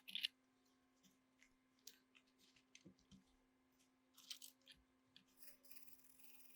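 Near silence with a sharp click at the start and scattered faint clicks and ticks, over a faint steady hum.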